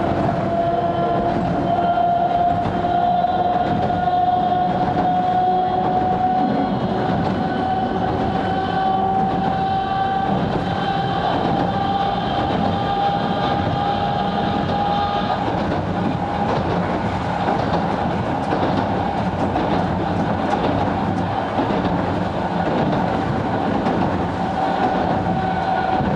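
Sangi Railway 270-series narrow-gauge electric train running, with a steady rumble of wheels on rail and clickety-clack. A motor and gear whine slowly rises in pitch as the train gathers speed, then blends into the running noise and holds steady near the end.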